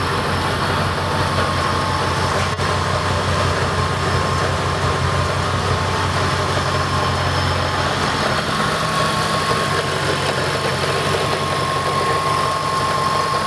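The supercharged 5.4-litre V8 of a 2003 Mercedes SL55 AMG running steadily at idle, with the rumble of a supercharger on a fixed, clutchless pulley. A steady high whine over the engine grows plainer about eight seconds in, when the low note shifts slightly.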